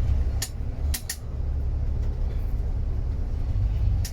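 Steady low rumble of a moving coach heard from inside the cabin, with a few short sharp rattles or clicks about half a second and a second in.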